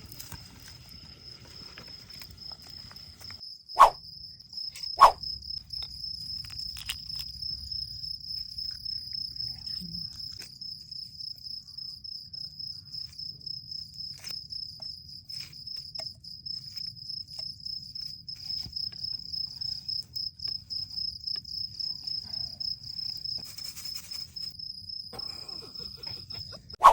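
Cricket chirping steadily, a fast pulsing trill that holds throughout. Two short, sharp sounds, louder than the cricket, come about four and five seconds in.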